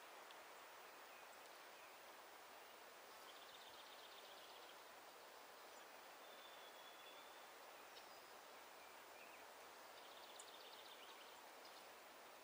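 Faint wild songbird calls over a steady outdoor background hiss: a rapid high trill about three seconds in and again about ten seconds in, a thin held whistle around six seconds, and a few short chips.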